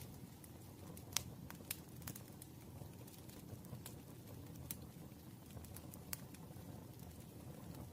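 Campfire crackling: scattered sharp pops and snaps of burning wood over a low, steady rumble of the fire, the loudest snap about a second in.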